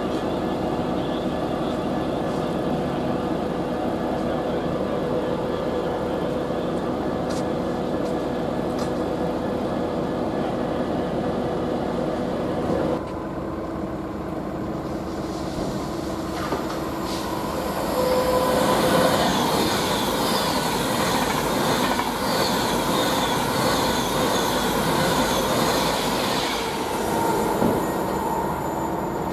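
A London Northwestern Railway Class 350 electric multiple unit giving a steady electric hum. After a cut about halfway, a freight train of open box wagons rumbles by, growing louder with many repeated high-pitched metallic squeals.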